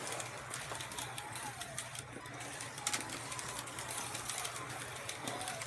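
Carrera Digital 132 slot cars running on the track: their small electric motors whine, rising and falling in pitch as the cars speed up and slow down, over a steady low hum, with many scattered sharp clicks.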